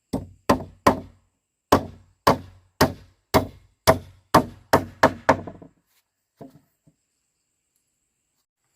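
A series of about a dozen sharp wooden knocks, roughly two a second, with a short pause after the third, then two faint knocks about a second after the run ends.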